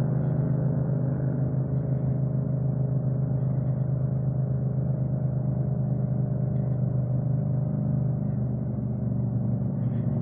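Motorcycle engine running at a steady cruising speed, one even muffled drone that holds the same pitch throughout.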